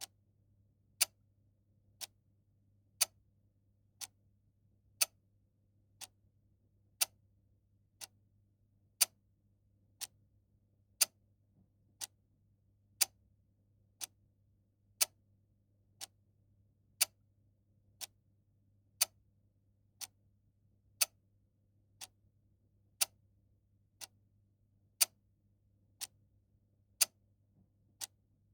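Clock ticking steadily once a second, with a louder tick alternating with a softer tock, over a faint low hum.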